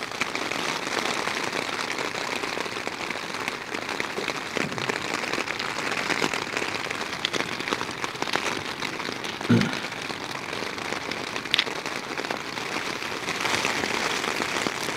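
Heavy rain falling steadily on a tent, heard from inside, an even hiss with a few sharper drop ticks. A brief soft thud comes about nine and a half seconds in.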